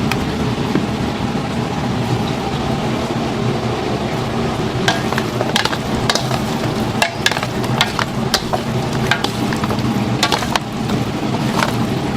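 Chicken deep-frying in oil, a steady sizzle, with scattered sharp clicks and knocks from about five seconds in.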